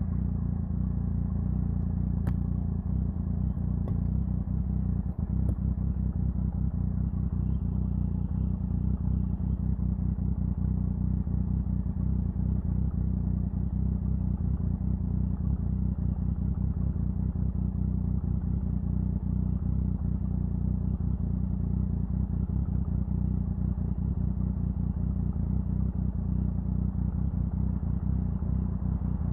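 Triumph Sprint 1050's three-cylinder engine running steadily, a low, even drone with no revving.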